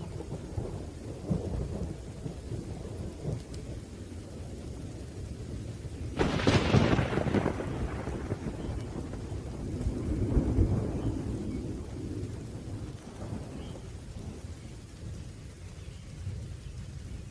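Thunderstorm: steady rain with low rolling thunder, a sharp thunderclap about six seconds in that rumbles away, and another roll of thunder a few seconds later.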